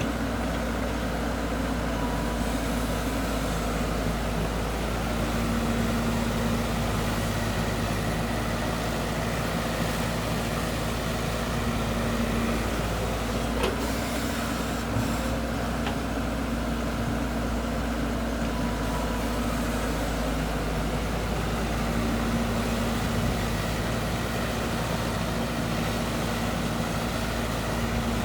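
Diesel engine of heavy earthmoving machinery running steadily under work, with a low hum that swells and eases slightly.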